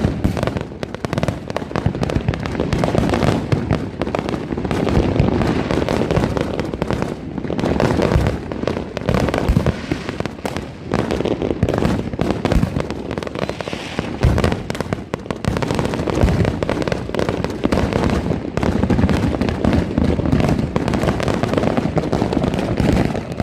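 Many consumer fireworks and firecrackers going off at once: a dense, unbroken barrage of bangs and crackles.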